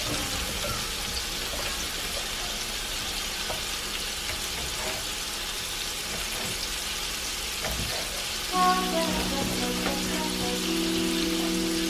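Onions and smoked neck bones sizzling in hot oil in an aluminium pot, a steady frying hiss. About three quarters of the way through, music with held notes comes in under it.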